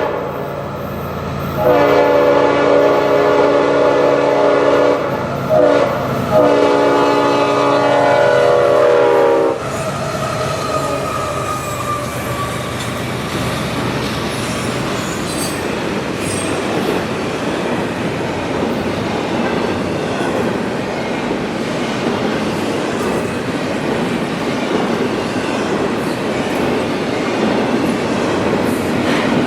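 Diesel locomotive's multi-chime air horn sounding a long blast, a short one and a final long one, the closing notes of a grade-crossing signal. It stops about nine and a half seconds in, and the train's cars then roll past with steady wheel-on-rail noise and clickety-clack.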